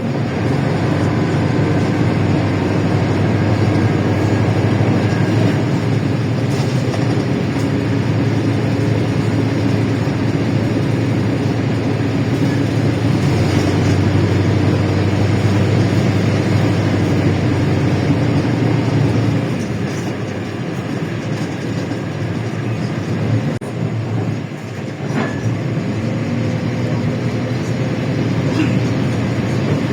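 LiAZ-677M bus's V8 petrol engine running under way, heard on board with road and body noise. The engine note drops off about two-thirds of the way through, then rises again near the end as the bus pulls away.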